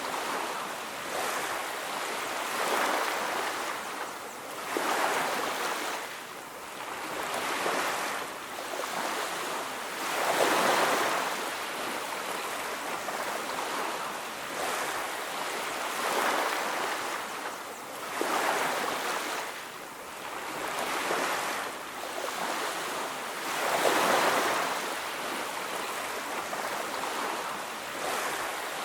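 Ocean surf breaking on a beach: a continuous wash of waves that swells and falls back every two to three seconds.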